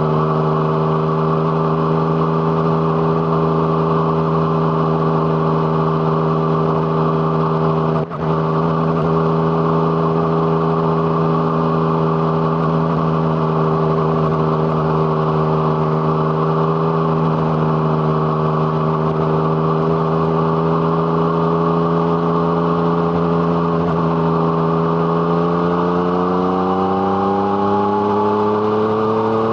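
Yamaha MT-09 inline-three engine breathing through an Arrow Thunder aftermarket exhaust, running under way at steady revs with a brief dip about eight seconds in. Near the end the revs climb steadily as the bike accelerates.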